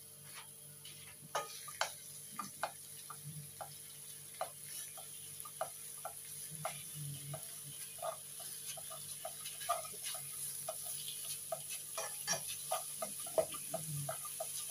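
Minced pork and chilli paste frying in a nonstick pan, with scattered crackling pops that grow more frequent as the pan heats. A plastic slotted spatula stirs and breaks up the meat in the second half.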